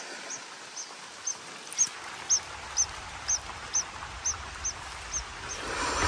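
A bird's short, high chirps, repeated evenly about twice a second, over a faint outdoor hiss.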